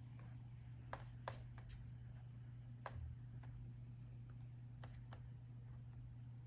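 Laptop keyboard keys tapped now and then, about seven separate clicks at uneven gaps, the loudest about a second in and just before three seconds, over a steady low hum.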